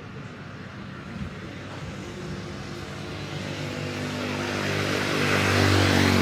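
Jet airliner engines growing steadily louder, with a low steady drone and a rising hiss that peak near the end.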